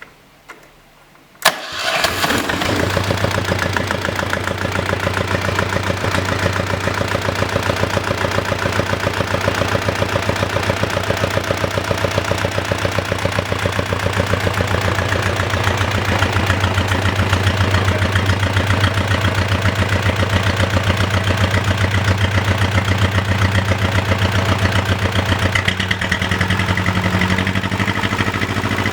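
Volvo Penta MD7B two-cylinder marine diesel, cold-started: a sharp click about a second and a half in as it fires almost at once, then it runs on steadily with a fast, even diesel knock.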